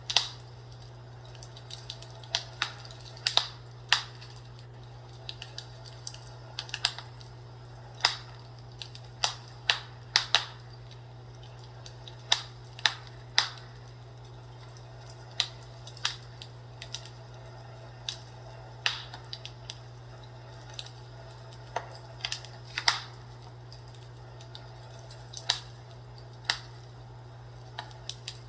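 Burning wood fire crackling, with irregular sharp pops and snaps, some in quick clusters, over a steady low hum.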